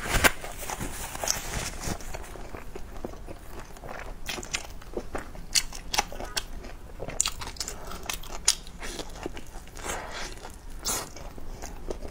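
A person chewing and biting a filled wrap close to a clip-on microphone: wet mouth sounds with many short, sharp crackles and clicks at irregular intervals.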